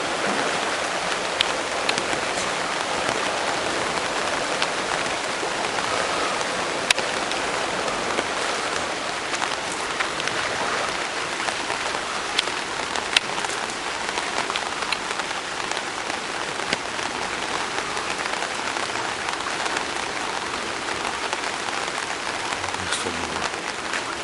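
Heavy typhoon rain falling steadily, with scattered sharp drop hits close by.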